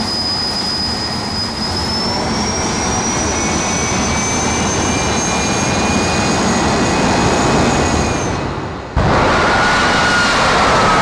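Jet dragster's turbine engine running with a high whine over a dense roar, the whine rising slightly in pitch about two seconds in. Near the end it cuts to a louder roar with a slowly falling tone.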